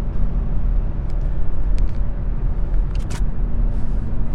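Steady low rumble of road and engine noise inside the cabin of a moving Toyota Tacoma pickup, with a steady hum and a few faint clicks.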